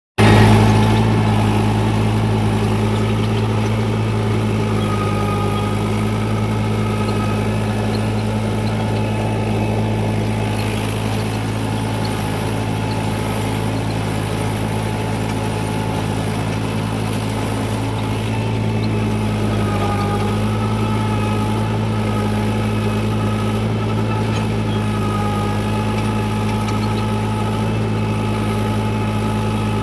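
Tractor engine running steadily at idle with an even low hum.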